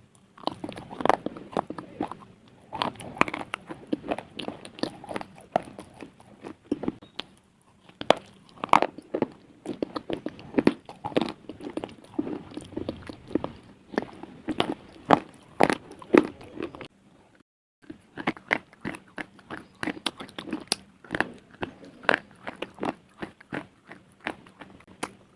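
Pieces of slate being bitten and chewed close to the microphone: a dense run of sharp, brittle crunches and crackles, with a short pause about two-thirds of the way through.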